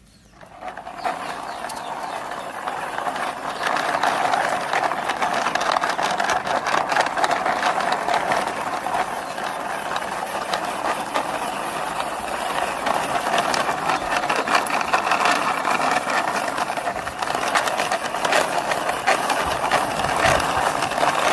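Toy city cleaning truck pushed along by hand, its plastic wheels rolling with a steady rattling whirr that builds up over the first few seconds.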